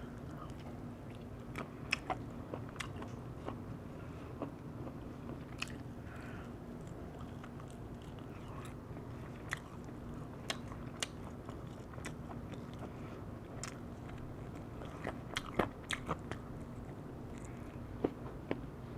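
Close-miked eating of a roast chicken wing: scattered crisp bites and chewing clicks, a few louder clusters about two seconds in and again near the end, over a steady low hum.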